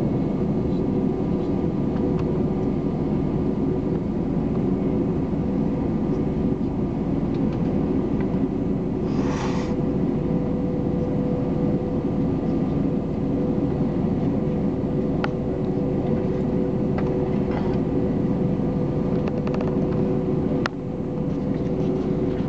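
Steady drone of an airliner cabin from its engines and air conditioning, with a constant hum. A short hiss comes about nine seconds in, and a sharp click near the end.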